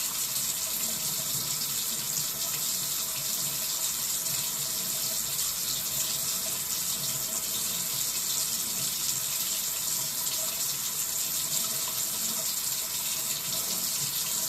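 Cold-water tap running into a sink with a steady, hissing flow.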